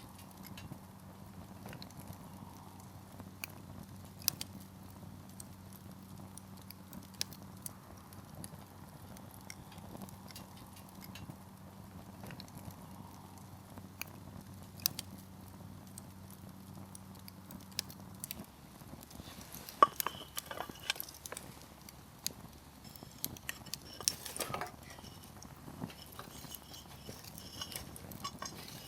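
Firewood crackling in an open campfire: scattered sharp pops, with a denser run of crackling about two-thirds of the way through. A faint low hum under it stops partway through.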